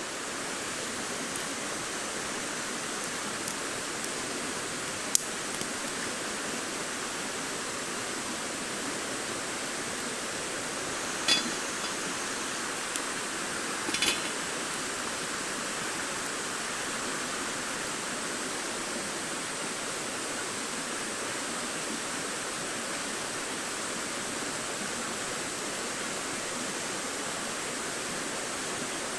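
Wood campfire burning with a steady hiss and a few sharp crackling pops, one about five seconds in and two more around eleven and fourteen seconds in.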